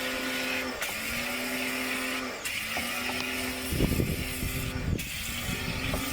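Electric motor of car-wash equipment humming in short runs, cutting out and restarting several times over a steady spray-like hiss. Heavy rumbling thumps come around the middle.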